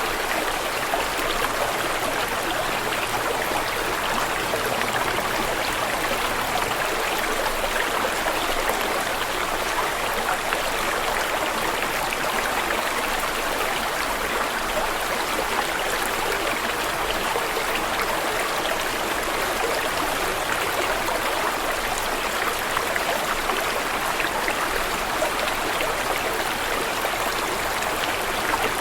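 Running water flowing steadily, an even rush and trickle with no breaks or changes.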